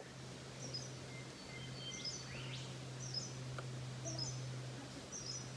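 A bird repeating a short, high chirp about once a second, five times, with a quick rising whistle near the middle. A faint, steady low hum runs underneath.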